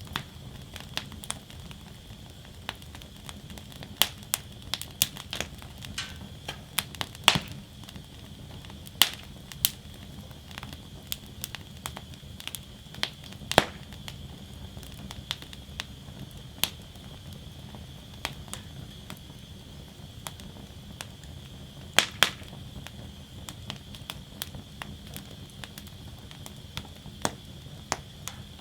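Wood fire burning in a metal fire basket, crackling steadily with irregular sharp pops and snaps, a few louder cracks standing out, over a low, even rush of the flames.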